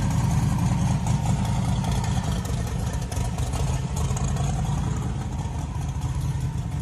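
Modified Chevrolet SS sedan's V8 engine idling with a steady low rumble; the car looks to be a twin-turbo build.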